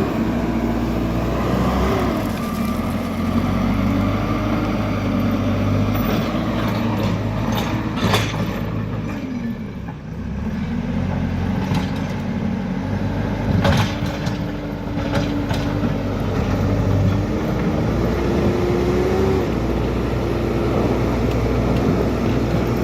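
JCB backhoe loader's diesel engine running under working load, its note rising and falling as the hydraulics are worked, with a couple of sharp knocks about 8 and 14 seconds in.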